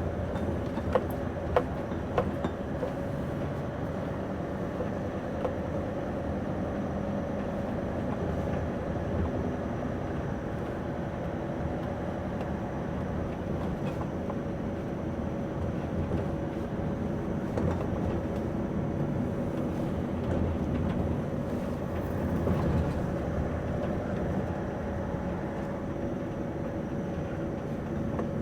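Scania V8 truck engine running steadily under way, heard from inside the cab, with a few short sharp clicks about one to two seconds in.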